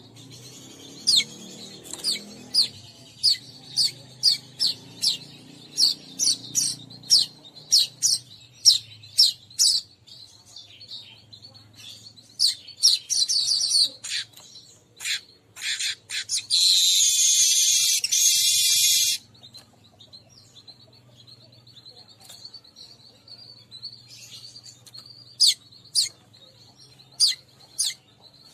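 Weaverbird (manyar) calls from a lure recording. A long series of sharp, falling chirps at about two a second gives way to a burst of fast chatter, then a long buzzy wheeze past the middle, and a few scattered chirps near the end.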